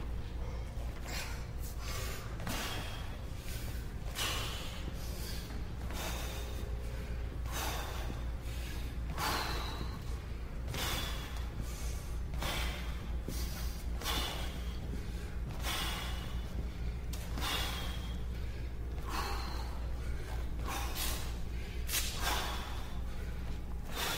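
A man breathing hard in sharp, noisy breaths about once a second as he works through lunges, over a steady low hum.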